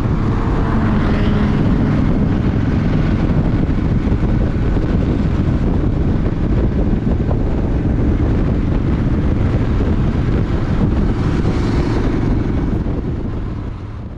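Steady wind rumble buffeting a GoPro's microphone at riding speed, with vehicle engine and road noise underneath; it fades out near the end.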